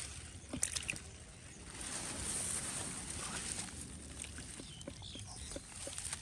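Shallow paddy-field water sloshing and splashing, with a few sharp clicks about half a second in and a louder swell of splashing a couple of seconds later.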